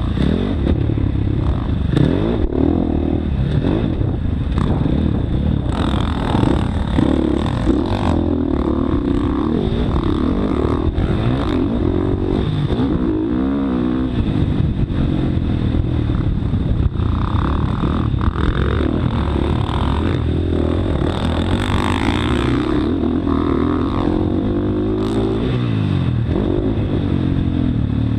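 Motocross bike engine being ridden hard, its pitch rising and falling over and over as the throttle is opened and closed, with intermittent clattering knocks from the bike.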